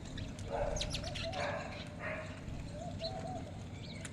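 Birds calling: short, wavering low calls repeated about once a second, with brief high chirps about a second in and again near the end.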